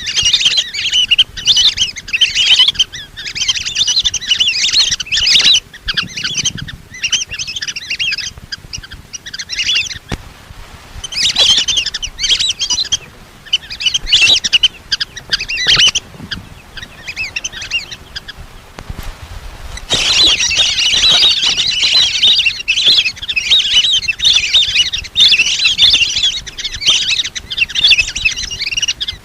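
Flock of lesser whistling ducks calling: high, twittering whistles in bursts of a few seconds with short pauses, running on without a break through the last third.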